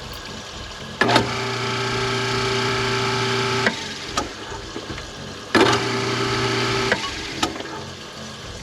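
InSinkErator Badger 5 garbage disposal switched on twice. Its motor starts abruptly and hums steadily for about three seconds, cuts off, then runs again for just over a second. This is a test run of the newly installed unit, and it is working normally.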